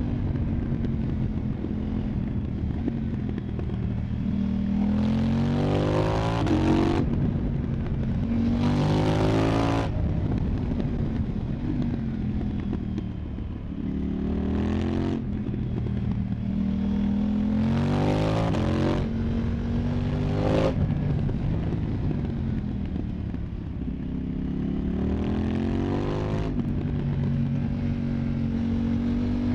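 KTM 990 Duke's parallel-twin engine running through an Arrow Pro Race exhaust, accelerating hard in repeated pulls. The pitch climbs through each gear and drops sharply at each upshift, with easier steady running between the pulls.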